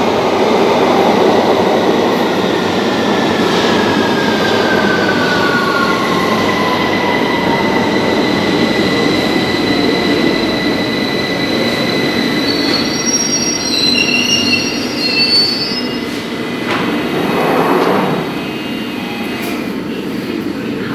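London Underground Victoria line train running through the station, with a motor whine gliding down in pitch as it slows, then high-pitched squeals from the wheels and brakes about two-thirds of the way in.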